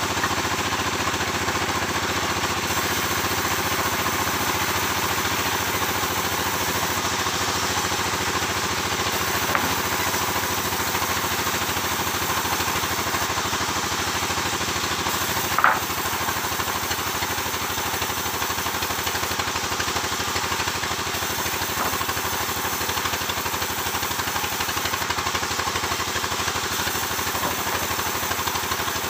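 Sawmill machinery running steadily with an even engine-like drone, and a sharp knock about halfway through.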